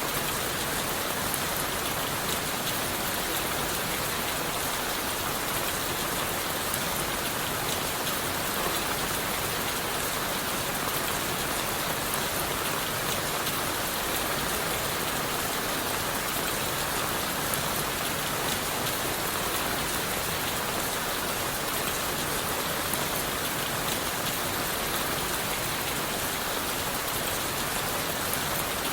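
Steady rain falling on leaves and wood: an even hiss with a fine patter of drops, unchanging throughout.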